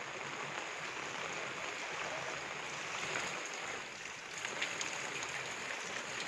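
Steady hiss of rain and water on a flooded street, with a few faint ticks about two-thirds of the way in.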